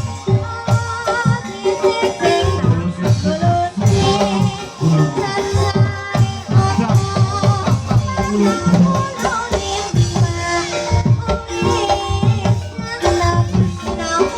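Javanese gamelan music accompanying an ebeg (kuda kepang) hobby-horse dance: a busy pattern of drum strokes under ringing tuned percussion, playing continuously.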